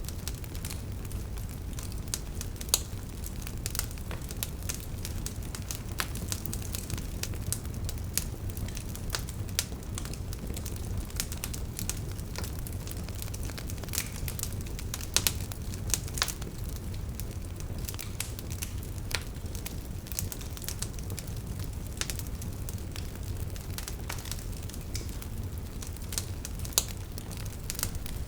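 Wood fire burning, with a steady low rumble of flames and frequent irregular sharp crackles and pops from the burning logs.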